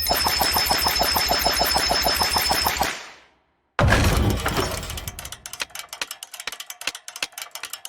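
Money Train slot game sound effects: a fast, even rattle of gunfire-like clicks for about three seconds that fades out, then after a brief silence a sudden loud burst followed by rapid clicks that gradually thin out.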